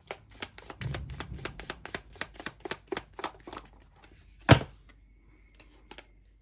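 A deck of reading cards being shuffled, a quick run of crisp card flicks several times a second. About four and a half seconds in there is one loud sharp snap, like the deck being tapped or cards slapped down.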